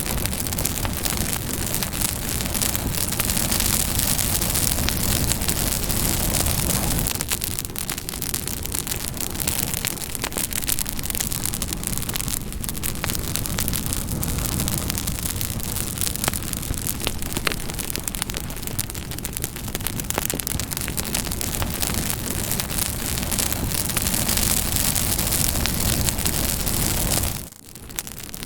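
Campfire crackling: a steady rush of burning with dense, irregular sharp pops and snaps. The sound drops away briefly about a second before the end, then picks up again more quietly.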